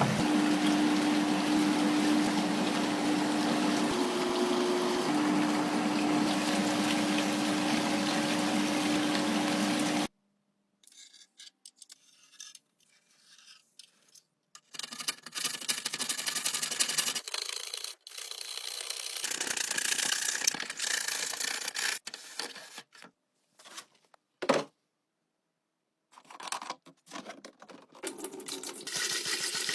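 Running water and scrubbing in a series of short edited clips; the first ten seconds are a steady rush of water with a steady hum underneath, then the sound breaks into short bursts of splashing and rubbing separated by silent cuts.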